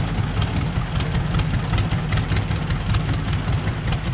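Antique tractor engine running at a slow idle, with an even, sharp exhaust beat of about five a second.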